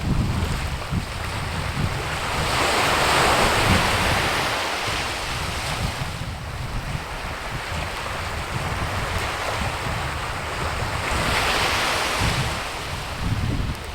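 Wind gusting outdoors, rumbling on the microphone, with two stronger gusts that rise and fall, one a few seconds in and another near the end.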